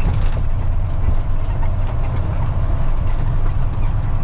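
Freightliner FLD dump truck's diesel engine running steadily at low speed, a constant low rumble heard from inside the cab.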